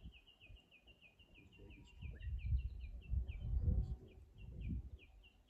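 A small bird chirping in a steady run of short, high notes, about three or four a second. From about two to five seconds in, a low rumble is the loudest sound.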